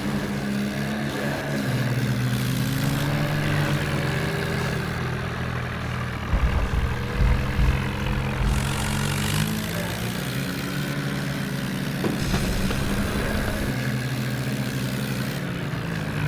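Tractor engine running steadily, with a few low thuds about halfway through.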